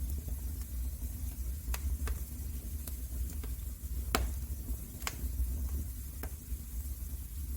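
Wood fire burning in a fireplace, crackling: irregular sharp pops and snaps, the loudest about four and five seconds in, over a steady low rumble of the flames.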